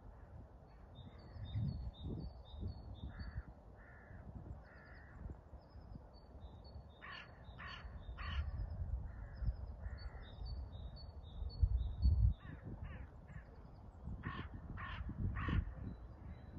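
Harsh animal calls in runs of three, over quick high chirping and twittering. Low rumbling runs underneath and is loudest about twelve seconds in.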